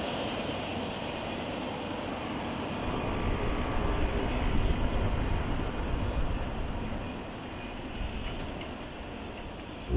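Freight train rolling past on the rails: a steady rumble that swells briefly midway, then fades as the train moves away.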